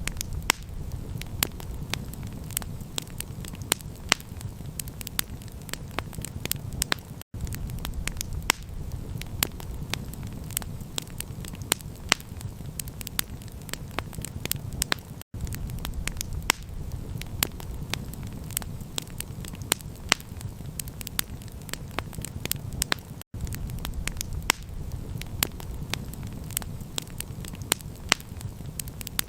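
Campfire crackling, with many sharp pops over a steady low rumble. The sound cuts out for an instant about every eight seconds.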